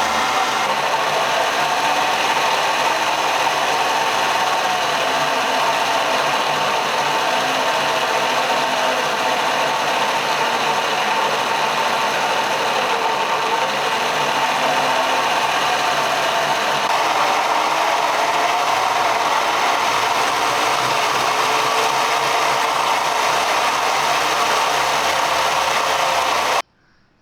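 Homemade angle-grinder-driven wood chipper, with a bike-chain and sprocket drive and a chainsaw-chain cutter, running loud and steady, its pitch wavering slightly. It cuts off suddenly near the end.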